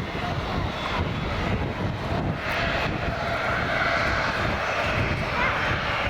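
Airliner's jet engines passing overhead, a steady loud rumble.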